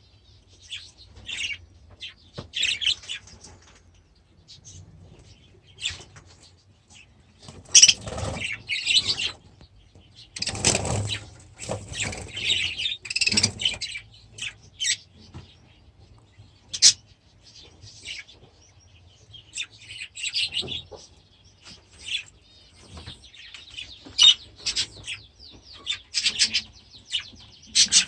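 Budgerigars chirping and warbling in short bursts, with a couple of louder flurries of wing-flapping about 8 and 11 seconds in.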